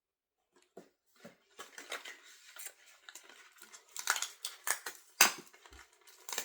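Hands handling a doll and its small plastic pieces: irregular rustling and clicking, with a few sharper clicks in the second half.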